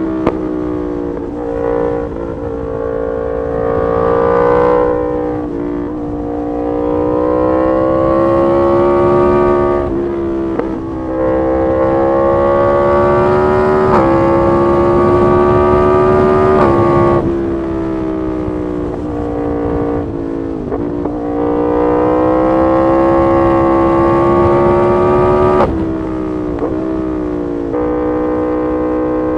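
Yamaha MT-10 SP's crossplane inline-four running through an SC-Project exhaust while riding. The engine note climbs steadily under throttle and drops back sharply every few seconds as the gears change.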